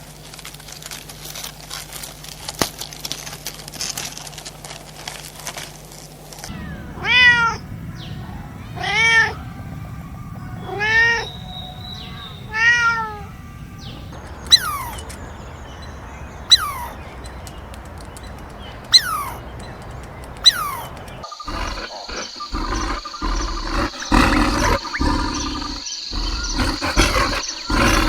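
A domestic cat meowing four times, about two seconds apart, after a stretch of steady background hiss. Then come four short, sharp, falling calls, and a busier, noisy stretch near the end.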